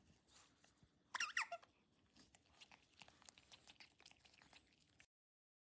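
Pet otter giving a short, high squeak that slides down in pitch about a second in, followed by faint, irregular clicks.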